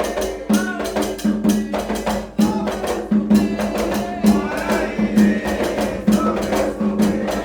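Candomblé ritual music: drums and hand percussion playing a steady, driving rhythm, with a deep drum stroke repeating a little faster than once a second, and voices singing over it.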